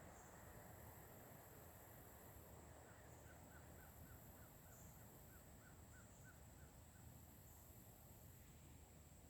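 Faint woodland ambience: a steady high insect drone with a pulsing buzz above it. About three seconds in, a bird gives a rapid series of short call notes, about four a second, for some four seconds.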